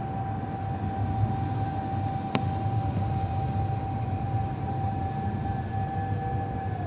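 Cabin noise inside an Airbus A350-941 with Rolls-Royce Trent XWB-84 engines: a steady low rumble with a held whine over it that begins to drop in pitch near the end. A single sharp click comes about two and a half seconds in.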